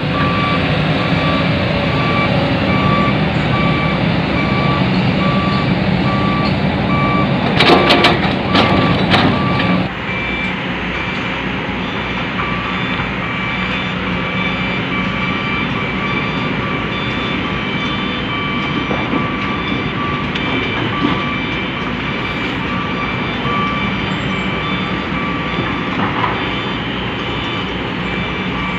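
Hino dump truck's diesel engine running with a reversing alarm beeping on and off throughout. A cluster of loud knocks and rattles comes about eight seconds in, then the engine settles a little quieter.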